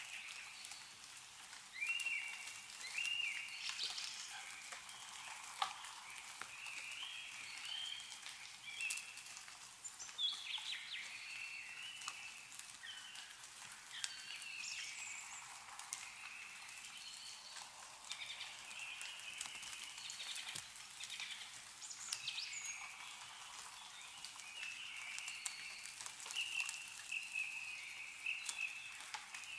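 Several small birds chirping and trilling, with scattered drips of melting snow falling from the trees.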